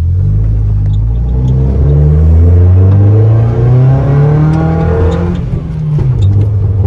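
Datsun 620 pickup's swapped Toyota Beams engine, heard from inside the cab, accelerating with revs climbing steadily for about five seconds, then dropping back and running at lower revs near the end.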